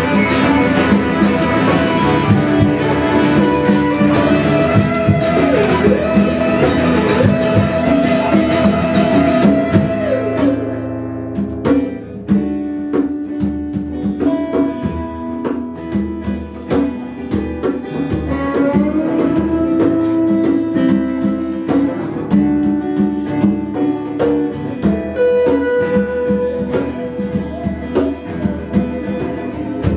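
Live instrumental break on guitars, with plucked and strummed acoustic guitar under lead notes that slide and bend in pitch. The playing thins out to a sparser texture about ten seconds in.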